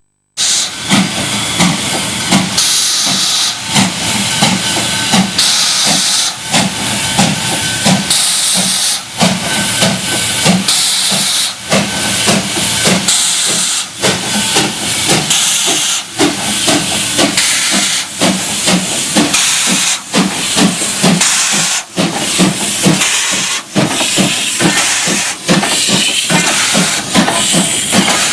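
W class steam locomotive W920 working hard up a grade on its own, its exhaust beating in a slow, regular rhythm over a continuous loud hiss of steam. The engine is described as ailing.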